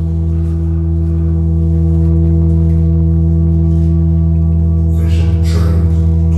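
A sustained musical drone of several steady held pitches, slowly getting louder, with a hissing, rustling texture joining it about five seconds in.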